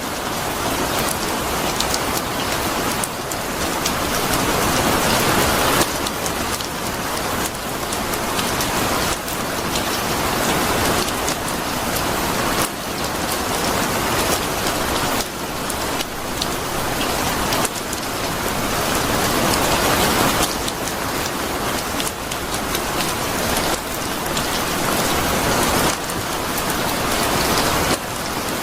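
Heavy steady rain: a dense hiss of drops on surfaces that swells and eases every few seconds.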